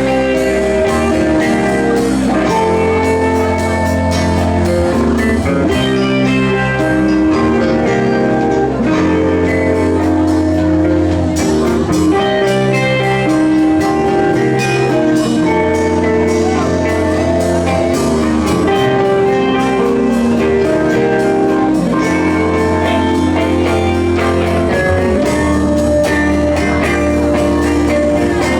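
Instrumental band passage with no singing: guitar over held bass notes and a drum kit beat.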